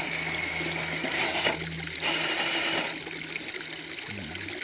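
Rushing, splashing water of a small waterfall. Over it, a low steady electric-motor hum from the RC crawler stops and starts several times as it creeps over the rocks.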